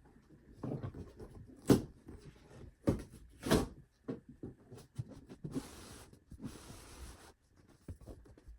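Foam packing being pulled out of a cardboard box: a few sharp knocks and thumps, then two stretches of rustling and scraping.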